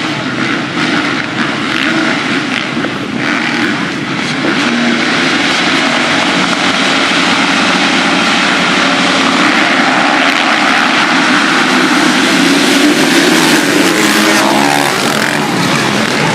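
Motocross motorcycle engines running hard and revving, the pitch rising and falling, louder over the last few seconds.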